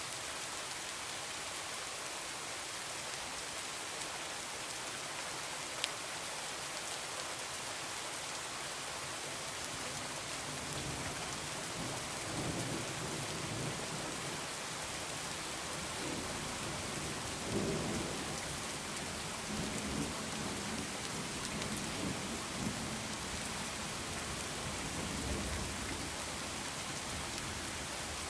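Heavy rain falling steadily, with a low rolling thunder rumble that builds from about ten seconds in, swells twice and fades near the end.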